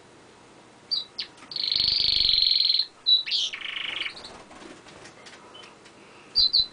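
Domestic canary singing: a short note, then a long high trill, a few quick notes and a shorter, lower trill. After a couple of quiet seconds come two quick chirps near the end.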